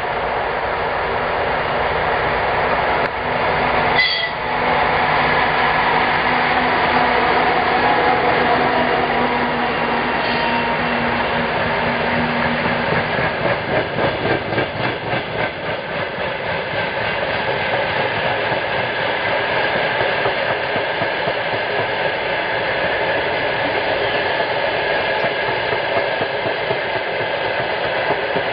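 2TE116 twin-section diesel locomotive passing while hauling a freight train. Its diesel engines drone steadily until about halfway through, then give way to the rhythmic clickety-clack of the tank cars' wheels over the rail joints. There is a brief sharp noise about four seconds in.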